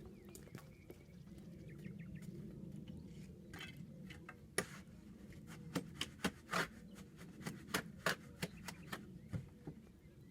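A series of sharp, irregular taps and knocks, about a dozen packed into the second half, over a low steady hum.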